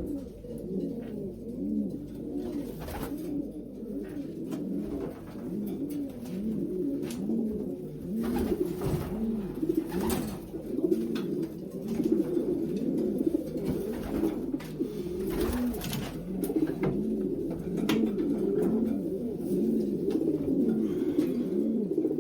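Many racing pigeons cooing together in a loft, a steady overlapping chorus of low calls, with occasional knocks and clicks from the birds and the handling.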